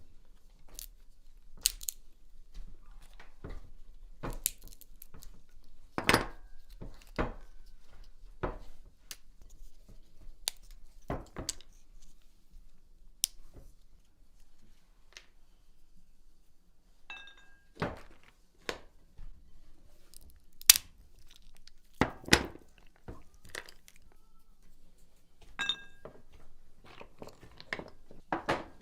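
Irregular clicks and knocks, with some crinkling and tearing, from food and kitchenware being handled. A few of the knocks ring briefly, like metal or crockery.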